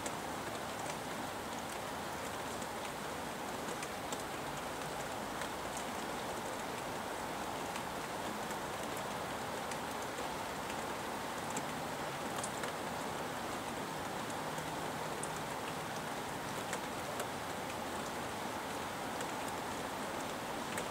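Steady rain falling, with scattered sharp ticks of individual drops striking nearby surfaces.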